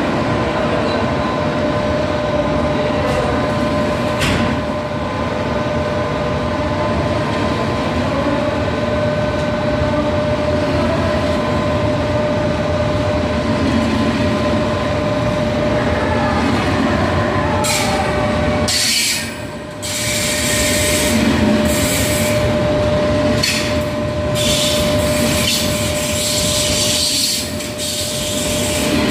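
Passenger train running through a station: steady rumble of wheels on rail with a sustained whine. The level dips briefly a little past two-thirds through, followed by a run of sharp clicks.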